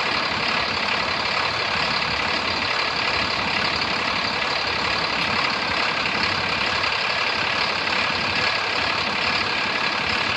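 2009 Cummins ISB6.7 inline-six turbo diesel engine running steadily, with no change in speed.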